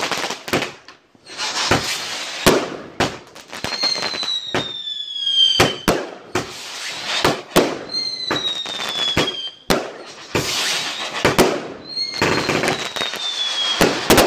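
Fireworks going off in a barrage of sharp bangs and crackling. Three whistling fireworks sound among them, each whistle sliding slightly down in pitch over about two seconds.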